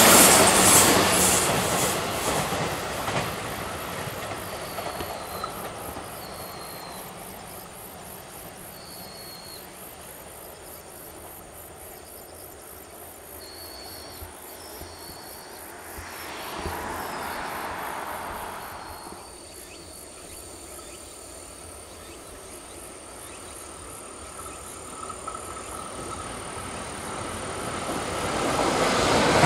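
A JR West 521-series local electric train passes and fades away over the first few seconds, its wheels clattering on the rails. Then it is quiet apart from insects and a few short bird chirps, with a brief swell of noise midway. Near the end a Thunderbird limited express approaches, its rumble and wheel noise growing louder.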